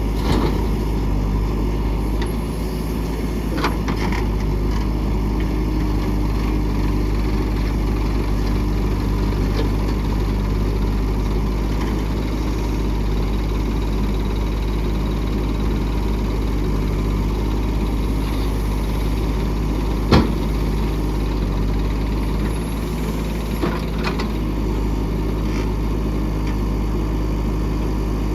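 Diesel engine of heavy earth-moving machinery, a backhoe loader or tractor, running steadily. A few sharp knocks sound over it, the loudest about two-thirds of the way through.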